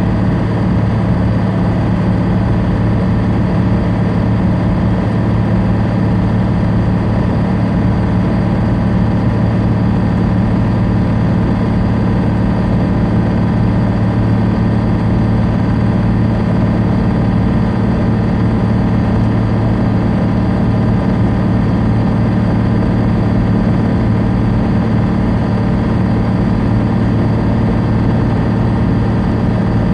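Semi-truck diesel engine running steadily at highway speed, heard from inside the cab: a constant low drone over road noise.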